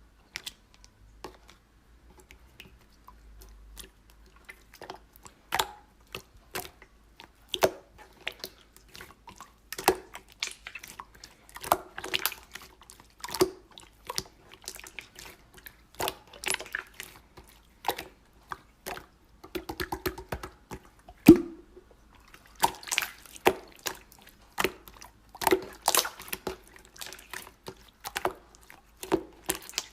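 Slime being played with by hand: irregular sticky clicks and small wet pops as it is pressed, squished and pulled, busier and louder in the last third.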